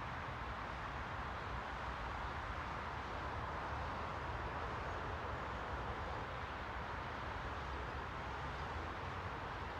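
Steady rushing white noise with a low rumble beneath it, even and unbroken.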